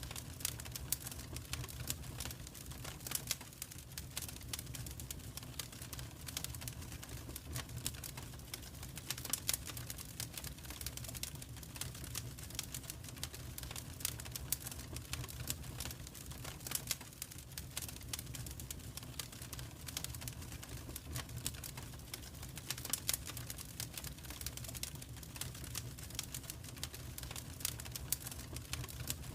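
Wood fire crackling in a fireplace: irregular pops and snaps over a steady low rumble of the flames.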